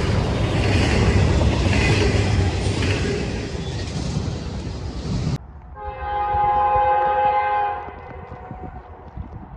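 A train passing close by with a loud, steady rumble of wheels on rails; this cuts off abruptly about five seconds in, and then a train horn sounds one chord of several notes for about two seconds before fading to quieter rail noise.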